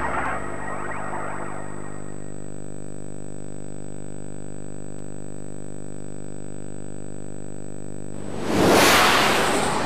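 The tail of a logo's music jingle dies away in the first two seconds. A steady buzzing hum with many overtones follows, and about eight and a half seconds in a loud whoosh cuts in.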